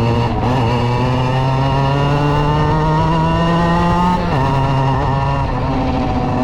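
Suzuki RG50 Gamma's small two-stroke single-cylinder engine running: the revs climb slowly for about four seconds, then drop suddenly and hold steady.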